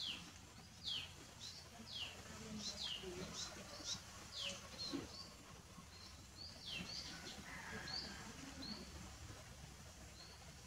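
A small bird chirping over and over: short, high chirps that slide downward, about two a second, thinning out in the last couple of seconds.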